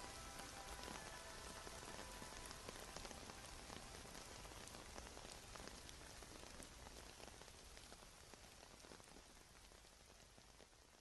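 Steady rain falling, with scattered drop ticks, fading out gradually toward the end. A faint trace of music trails off about a second in.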